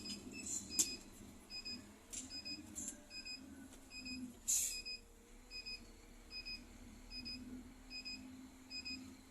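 A beeper in the cab of a Scania K310 bus beeping steadily, about one and a half short high beeps a second, over the low hum of the engine, with a few sharp clicks in between.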